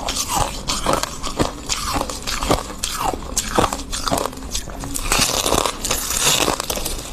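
Close-miked crispy crunches of freezer frost being bitten and chewed, a rapid irregular run of sharp crackling crunches.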